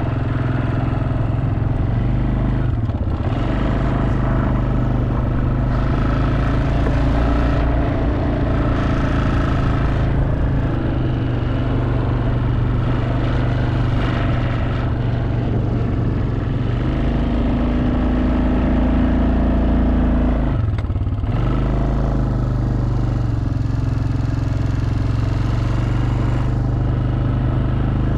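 Quad bike engine running steadily under way on a rough track. The throttle eases off briefly about three seconds in and again around twenty-one seconds in, and the engine note rises just before the second lift-off.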